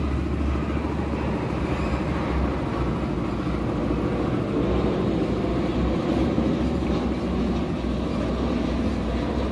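Steady low vehicle rumble, loud and unchanging in level.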